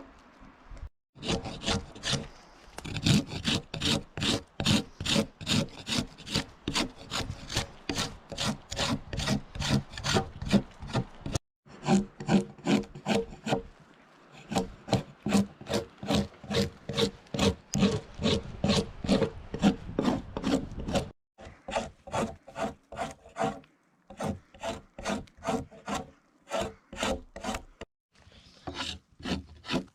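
A broken scythe blade used as a draw knife shaving wood, in quick scraping strokes about two to three a second, in runs broken by short pauses.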